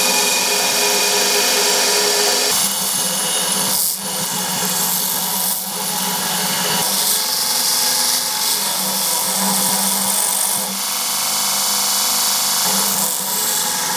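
A power tool running continuously, its sound shifting every few seconds.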